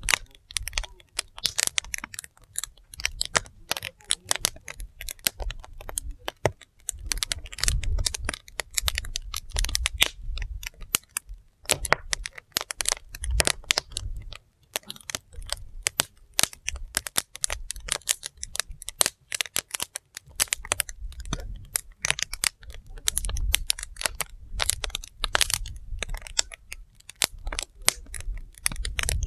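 Wood fire burning, crackling with many sharp, irregular pops over a low rumble.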